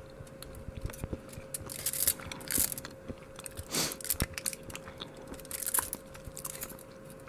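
A person chewing and crunching a chunk of crunchy dark chocolate, in irregular crackles and clicks. A faint steady hum runs underneath.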